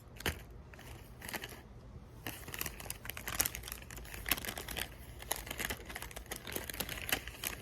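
Irregular crinkling and rustling made up of many small clicks and crackles, as of something like paper or plastic being handled close by.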